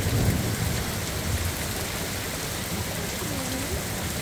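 Heavy rain pouring down steadily in a downpour, an even hiss with no separate strikes standing out.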